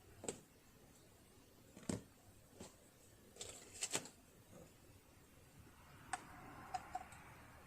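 Scattered light clicks and taps of small metal tools and parts being handled on a partly disassembled sewing machine. There is a single click near the start, another about two seconds in, a quick cluster around four seconds, and three short ringing ticks near the end.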